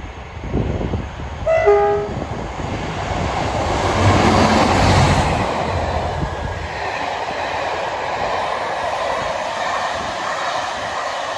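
West Coast Railway diesel locomotive sounding a brief two-tone horn about a second and a half in as it approaches, then the train passing close, loudest about four to five seconds in, followed by the coaches rolling steadily past on the rails.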